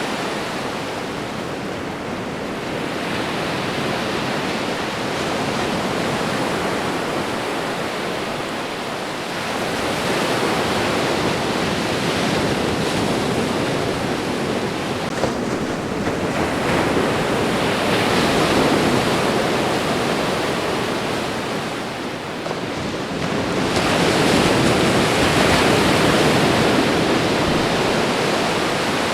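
Ocean waves washing onto a shore: a continuous rush of surf that swells louder every several seconds, loudest near the end.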